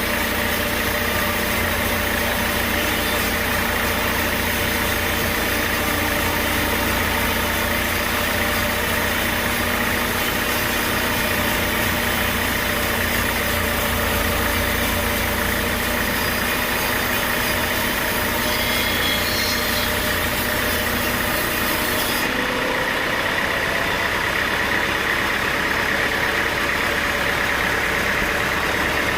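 Engine-driven sawmill machinery running steadily with a constant hum. About three-quarters of the way through, the high hiss drops away and the low rumble changes.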